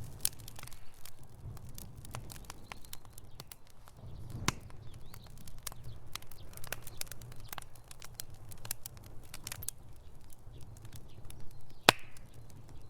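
Wood fire in a fireplace crackling, with frequent sharp pops over a low rumble of the flames and one louder pop near the end.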